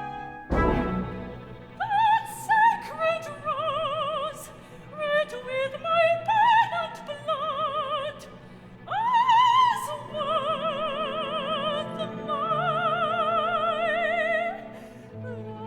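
Operatic singing in a high voice over a small orchestra: held notes with wide vibrato and a big upward slide near the middle, with no clear words. A deep thud sounds about half a second in.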